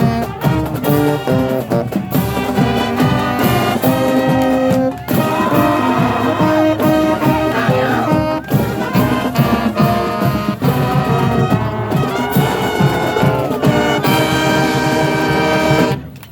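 Marching band playing a brass-heavy tune, trumpets and trombones over steady drum strikes; the music cuts off abruptly near the end.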